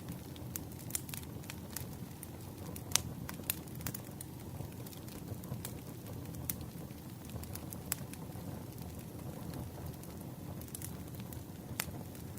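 Wood campfire crackling: irregular sharp pops and snaps over a steady low rush of burning.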